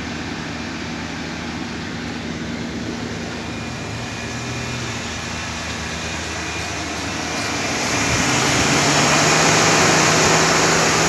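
2017 Chevrolet Silverado running with its air conditioning on: a steady hum from the engine under the rush of the blower, which grows louder about eight seconds in.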